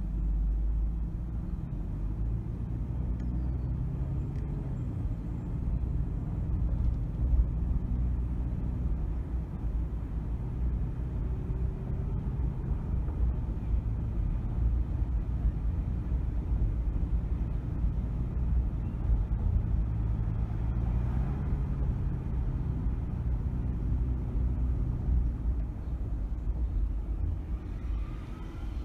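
Car driving in city traffic, heard from inside the cabin: a steady low rumble of engine and road noise, the engine note stepping up and down in pitch several times as the car speeds up and slows.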